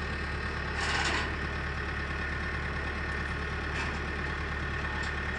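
Engine idling with a steady low rumble, and a short burst of noise about a second in.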